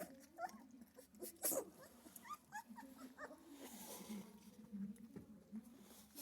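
Central Asian Shepherd puppies whimpering and squealing in short, high, wavering cries, the loudest about a second and a half in.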